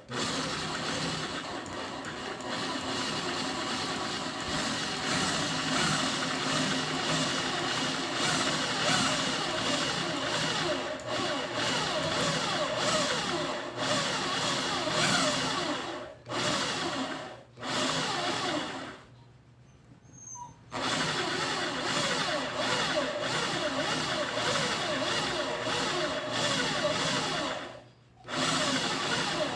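Electric drill in a mini drill press running and drilling a hole for an oil-burner nozzle. It stops and restarts several times, with a pause of about two seconds past the middle.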